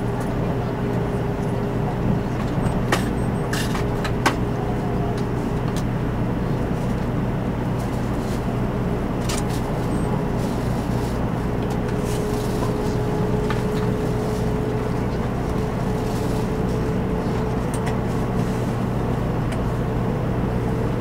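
Running noise heard inside the cabin of a JR West 500 Series Shinkansen: a steady rumble with a steady whine that rises slightly in pitch over the second half, and a few sharp clicks around three to four seconds in.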